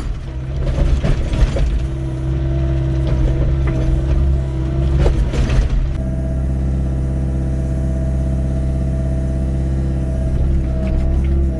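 Doosan 55W wheeled excavator working: its engine runs steadily under a hydraulic whine that rises and falls. In the first half the bucket scrapes and knocks against stony ground. From about six seconds in the machine runs more steadily.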